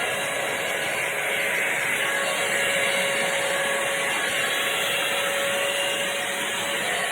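Revlon One-Step hot-air brush dryer running steadily: a constant rush of blown air with a faint motor whine.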